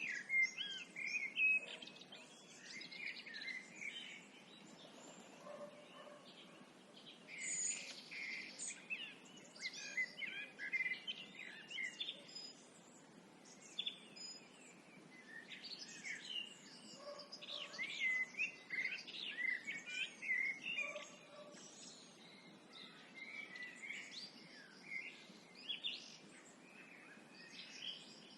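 Several songbirds singing at dusk, overlapping chirps and warbled phrases coming in busy bursts with short lulls between, over a faint steady outdoor background.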